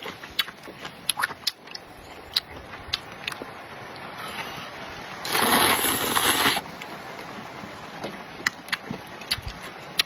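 Close-up eating sounds: many small sharp clicks and crunches of chewing and utensils, broken about five seconds in by a loud, even hissing rush that lasts a little over a second.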